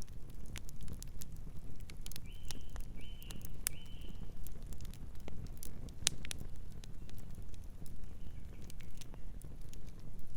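Campfire crackling, with irregular sharp pops and snaps of varying loudness over a low steady rumble. A bird gives three short calls about two to four seconds in, and fainter calls come near the end.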